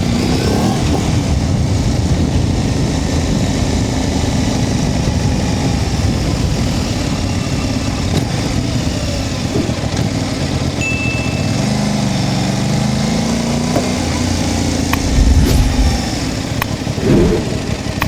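Aprilia RS660's parallel-twin engine running under way in city riding, its pitch rising and falling with the throttle about two-thirds of the way through, with a couple of louder low rumbles near the end.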